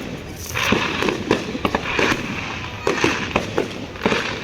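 Fireworks going off: a rapid, irregular run of sharp bangs, several a second, with a crackling hiss from about half a second to three seconds in.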